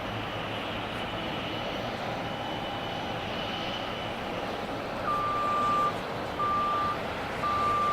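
Steady jet aircraft engine noise across the airport apron, with a faint high whine over it. About five seconds in, a series of evenly spaced electronic beeps starts, roughly one a second.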